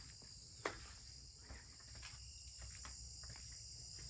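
Steady, faint chorus of crickets, with a single sharp click about half a second in.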